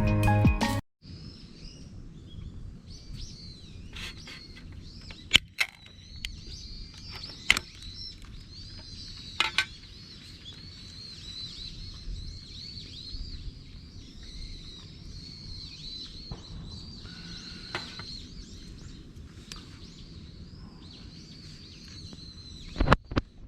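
Birds chirping on and off over a steady outdoor hum, with a few sharp clicks or knocks. Background music cuts off about a second in.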